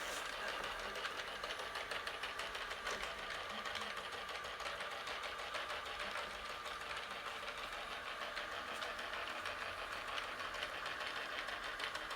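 ILife robot vacuum cleaner running with a steady whir as it drives itself back to its charging dock after being sent home.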